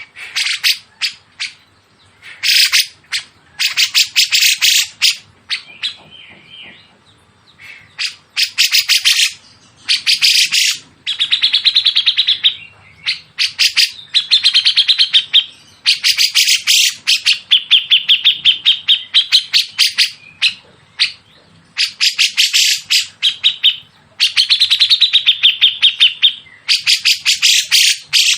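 Songbird calling from a masteran track mixing cucak jenggot and siri-siri kecil. Bursts of harsh, rapid-fire repeated notes, each a second or two long, alternate with lower, more even trills, with short pauses in between.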